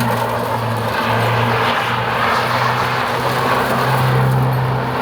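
Car engines and exhausts running, with a steady low drone that drops out briefly and comes back several times.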